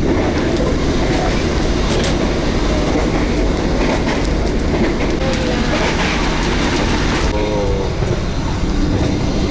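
Passenger train running along the track, heard from inside the carriage: a steady loud rumble of wheels and car with some clatter. The higher part of the noise drops away about seven seconds in.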